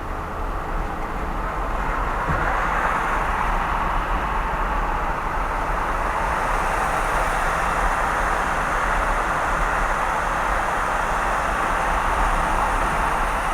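Steady road and tyre noise of a car driving at speed, growing a little louder about two seconds in.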